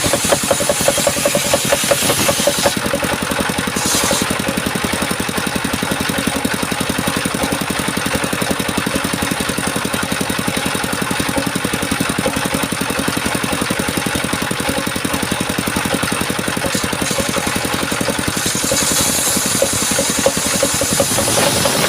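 Engine-driven circular sawmill running steadily, with a harsher high hiss in the first few seconds and again near the end as the blade cuts through coconut wood.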